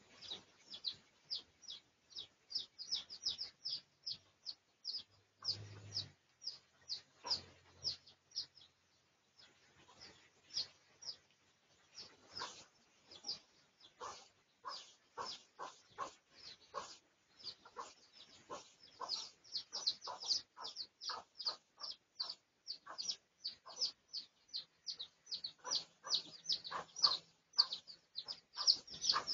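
Birds chirping: a rapid, unbroken series of short, high, downward-slurred chirps, several a second. About twelve seconds in a second, lower series of chirps joins, and the chirping grows denser near the end.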